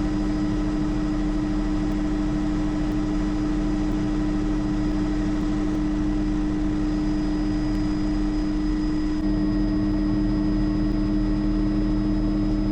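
Bell JetRanger helicopter in cruising flight: the turbine engine and transmission give a steady whine over the beat of the rotors, getting slightly louder about nine seconds in.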